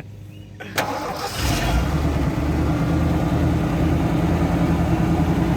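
A vehicle engine starts about a second in and settles into a steady idle.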